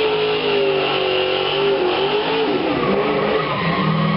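Car engine held at high revs during a burnout, its pitch wavering up and down, over the steady hiss and squeal of spinning tires.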